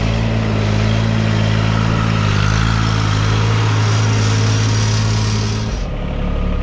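Tractor engine running steadily, its note changing about six seconds in.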